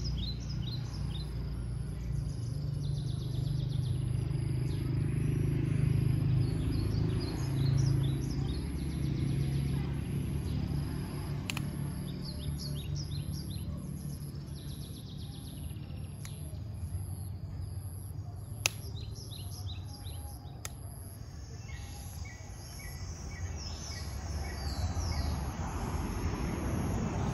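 Birds chirping in short scattered bursts over a steady low rumble, with a thin continuous high-pitched whine and a sharp click about two-thirds of the way through.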